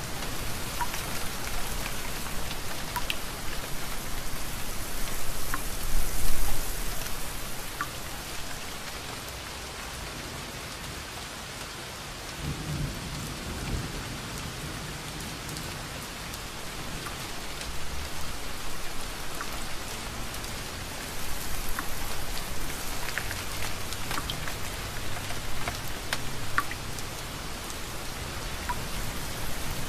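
Steady rain falling with scattered distinct drips. It swells louder about six seconds in, and a low rumble of thunder comes around the middle.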